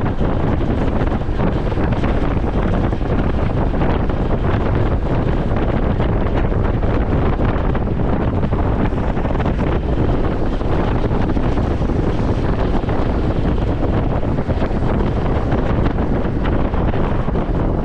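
Steady wind buffeting on the microphone of a camera riding on a moving Honda CT125 Hunter Cub, with the motorcycle's single-cylinder engine and exhaust running under it.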